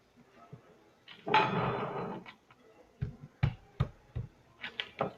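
Small containers and utensils being handled: a short rattling burst about a second in, then several sharp knocks.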